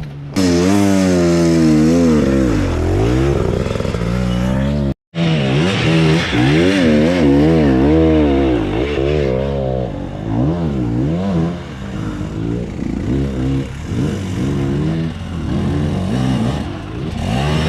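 Enduro dirt bike engine revving hard, its pitch climbing and falling over and over, with a short break in the sound about five seconds in.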